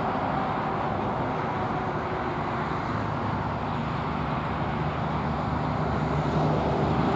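Road traffic noise: a steady rumble of passing vehicles, with a low engine hum growing louder over the last few seconds as one vehicle comes closer.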